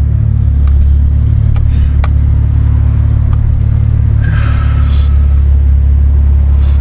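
Car engine idling steadily, a loud, even low rumble close to the microphone. A brief hiss comes in about four seconds in, and there are a few faint clicks.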